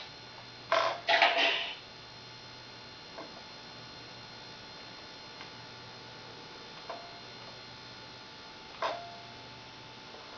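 Tamiya Scania RC model truck at rest: two short noisy bursts about a second in, then a few faint single clicks over a steady low electrical hum.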